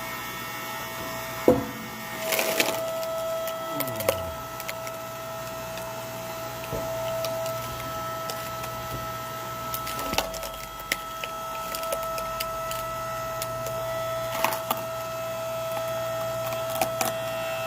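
Hydraulic log splitter running with a steady hum as it splits firewood, the wood cracking and splintering in several sharp snaps; the loudest comes about a second and a half in.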